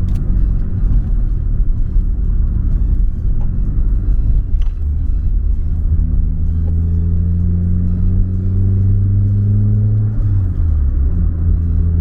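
Nissan Silvia S15 Spec R's turbocharged SR20DET four-cylinder engine running under a low road rumble while driving. Its pitch climbs slowly for several seconds, then drops sharply near the end, like a gear change, and settles again.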